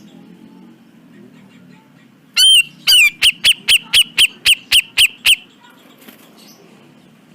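Grey-cheeked bulbul (cucak jenggot) calling: about two and a half seconds in, one loud arched note, then a fast run of about ten sharp, clipped notes at roughly four a second that stops abruptly. A faint low hum sits underneath.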